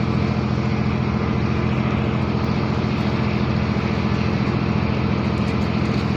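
Ship's engine running steadily while the vessel manoeuvres to berth: a low, even drone with a fine rapid pulse.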